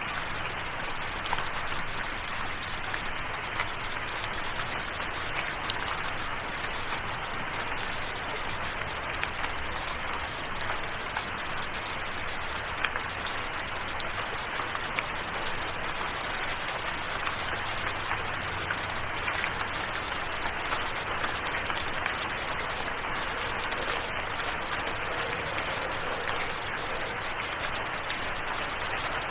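Steady rain falling, an even hiss scattered with the small ticks of individual drops.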